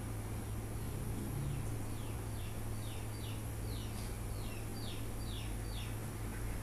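A bird calling: a run of about ten short falling chirps, two or three a second, starting about two seconds in, over a steady low hum.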